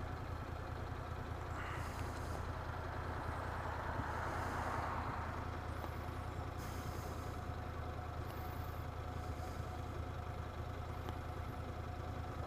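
A motorcycle engine running steadily at low revs, close to idle, with faint traffic noise around it.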